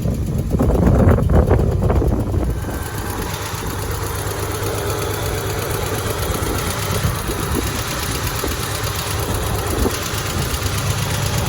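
Toyota 4Runner engine running at idle, steady, a little louder for the first couple of seconds.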